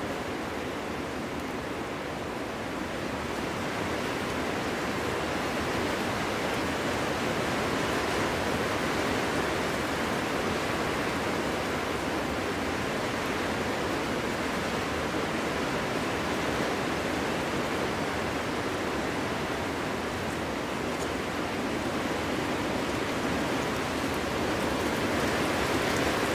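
Wind blowing in a steady rush of noise, swelling gently a few seconds in and again near the end.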